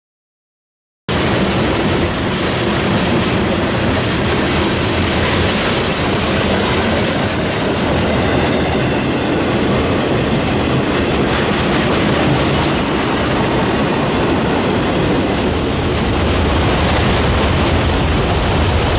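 Freight train's cars rolling past at close range: a loud, steady rumble of steel wheels on the rails that starts abruptly about a second in.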